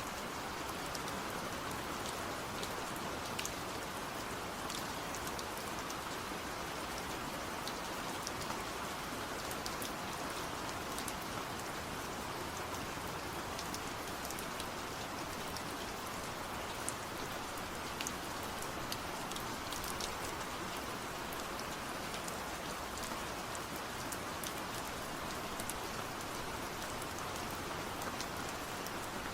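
Steady rain falling, with a constant hiss and many scattered sharp drop hits.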